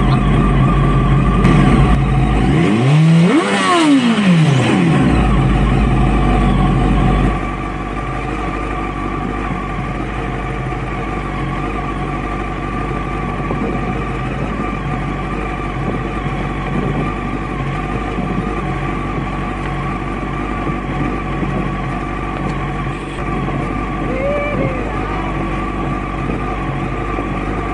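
Motorcycle engine revving up and back down, then running at a steady speed with a low rumble of wind and road noise.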